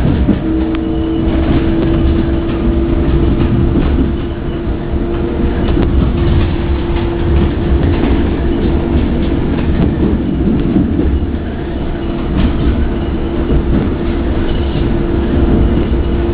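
Rodalies electric commuter train heard from inside the carriage while running: a steady rumble of wheels on the track, with a steady hum that comes in about half a second in and occasional clicks over rail joints.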